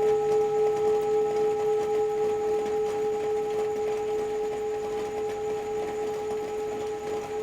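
Tibetan singing bowl ringing on after being played, its steady tones wavering in a slow beat about twice a second and slowly fading, over a faint hiss of rain.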